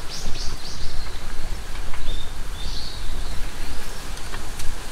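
Outdoor ambience: a steady noisy hiss with a low rumble, and over it a small bird calling in short high chirps, a quick run of them at the start and a few more later.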